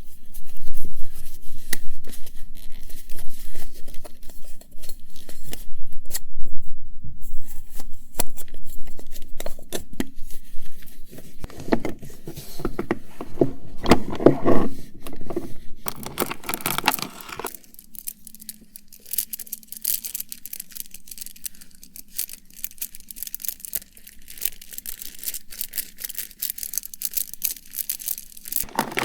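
Close-miked handling of cosmetics and their packaging: continuous rustling and crinkling with many small clicks and taps, loudest from about a third to just past halfway in.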